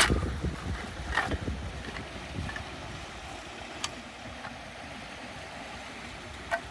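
Lake water lapping with a low rumble of wind on the microphone. Four sharp clicks or knocks sound through it, the loudest at the start and about a second in.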